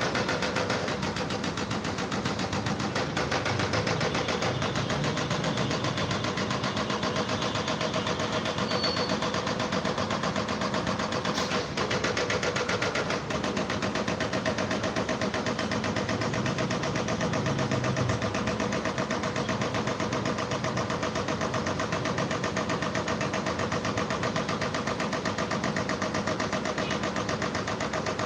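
A machine running steadily with a fast, even rattle, unbroken throughout.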